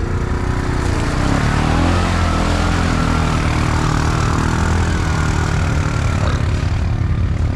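Off-road vehicle engine running under throttle. Its pitch climbs over the first couple of seconds and then holds steady.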